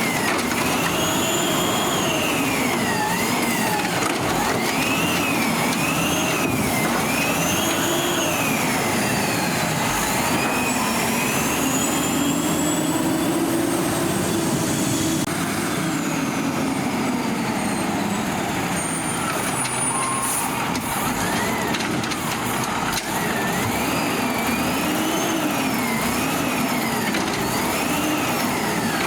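Peterbilt 320 garbage truck's diesel engine revving up and down over and over, with several quick rises and falls, one longer slow rise and fall in the middle, then more quick ones near the end.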